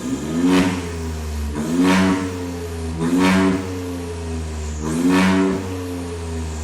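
Volkswagen Golf 8 1.0 TSI three-cylinder turbo engine blipped four times from idle, each rev rising and falling in pitch. It runs through an aftermarket downpipe with the exhaust cutout valve open.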